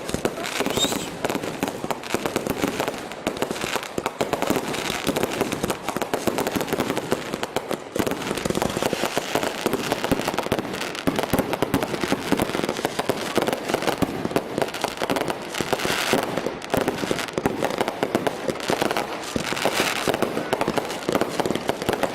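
Fireworks going off continuously: a dense, unbroken stream of rapid crackles and pops, with a faint rising whistle near the start.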